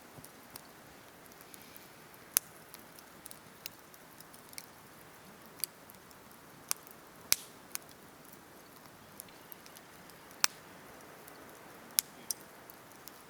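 Campfire crackling: irregular sharp pops and snaps of burning wood, a few much louder than the rest, over a faint steady hiss.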